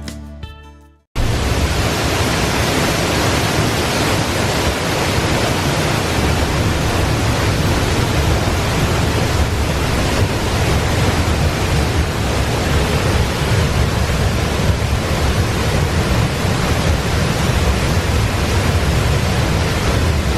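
Background music fading out, then after a short gap the steady, loud rush of a waterfall's falling water.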